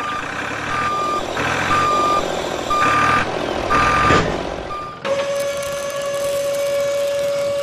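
Reversing alarm beeping about once a second, a single steady-pitched beep alternating with short noisy bursts. About five seconds in the beeping stops and a steady lower-pitched tone holds to the end.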